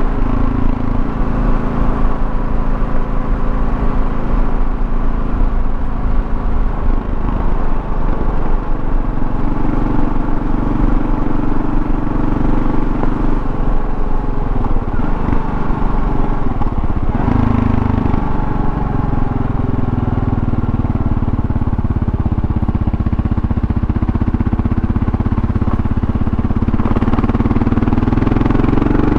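Kawasaki KLR650's single-cylinder engine running while the motorcycle is ridden, with road noise. The engine note shifts a few times and rises near the end as it revs up.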